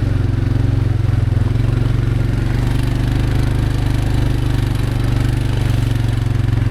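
A small vehicle's engine running steadily as it drives along, with an even, unchanging pitch.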